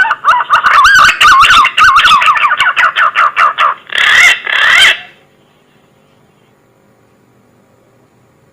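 A bird calling: a loud, warbling series of whistled notes that ends about five seconds in.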